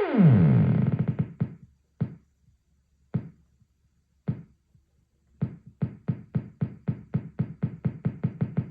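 Behringer Neutron synthesizer: a downward-sweeping tone dies away in the first second and a half. Then short, low, plucky notes repeat, sparse at first and then speeding up to about five a second.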